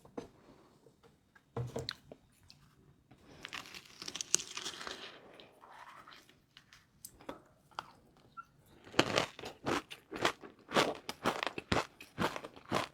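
Crispy fried noodles being bitten and chewed close to the microphone: scattered sounds at first, then from about nine seconds in a fast run of sharp crunches, several a second.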